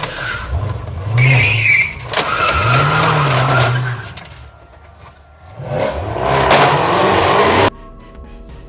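Car engine revving up and down several times over tyre noise, with a brief tyre squeal about a second in. It cuts off suddenly near the end, giving way to music.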